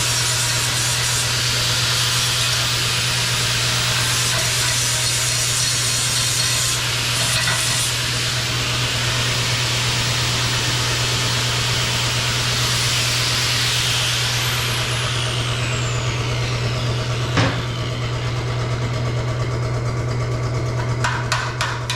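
Arc welding on rusty truck sheet metal: a steady crackling sizzle over a low electrical buzz, starting abruptly and running without a break, with a single click about three quarters of the way through.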